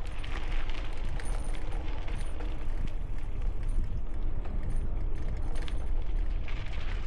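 Wind buffeting the microphone of a helmet-mounted camera while cycling: a steady, deep rumble with a rushing noise over it and no break.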